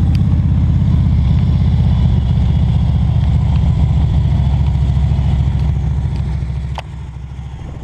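A vehicle engine running steadily with a low, even pulse, dropping to a quieter level near the end.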